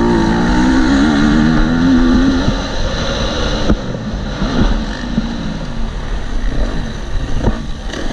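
KTM SX-F 250 four-stroke single-cylinder motocross engine revving hard under load, its pitch wavering up and down, then easing off about two and a half seconds in. Two sharp knocks cut through, near the middle and near the end.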